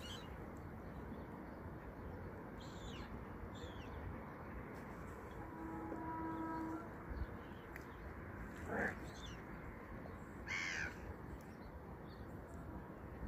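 Birds flying over open water giving a few scattered harsh calls, single cries several seconds apart, the loudest about two-thirds of the way in, over a steady low outdoor hiss.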